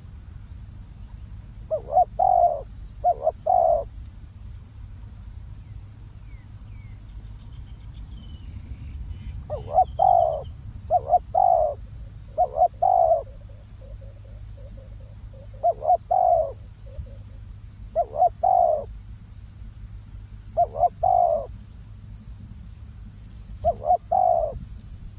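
Spotted dove cooing: short phrases of two or three low coos, repeated every few seconds, over a low steady rumble.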